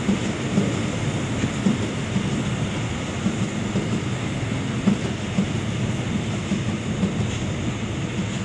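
A train running past on the line, a steady rumble of wheels on rail with irregular sharp clacks from the wheels.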